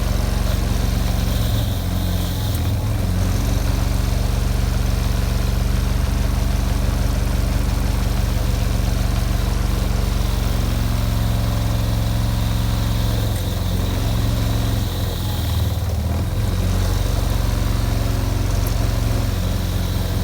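Electric motor spinning a wire wheel, running steadily under load as the wires scrub rust off a cast-metal weight. The scratchy hiss of wire on metal swells and fades as the work is pressed in and moved.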